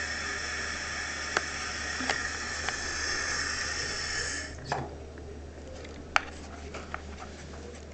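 A steady hiss with a few faint held tones, cut off suddenly about four and a half seconds in, with scattered light clicks and taps throughout.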